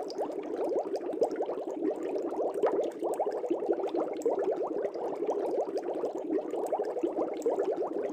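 Aquarium water bubbling: a dense, steady stream of small air bubbles rising and popping in a fish tank.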